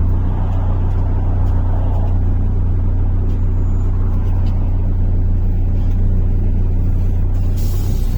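MAZ-103.485 city bus under way, heard from inside the cabin: a steady low engine drone with road rumble. A short hiss comes near the end.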